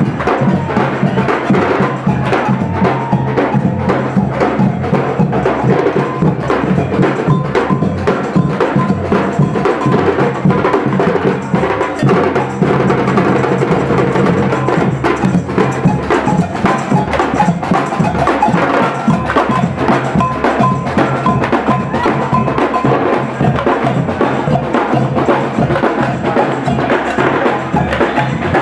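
Procession marching band playing, with drums beating and sustained instrument tones under them.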